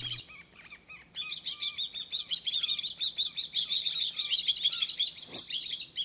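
Birds chirping: a fast, continuous run of high, thin chirps that starts about a second in after a short lull.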